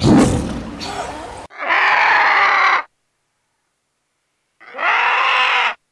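A vulture's two long calls, each a little over a second, about three seconds apart, each cutting off abruptly into dead silence. Before them, white tigers tussling in water make a loud rough noise with a deep rumble, which ends suddenly about a second and a half in.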